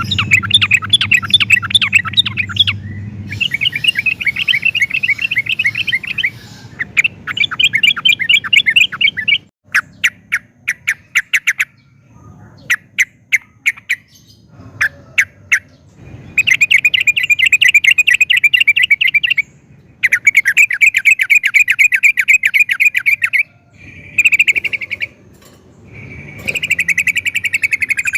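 Yellow-vented bulbul (trucukan) singing in fast chattering trills. About a third of the way in, the trills break into separate sharp notes, then return as longer rapid runs.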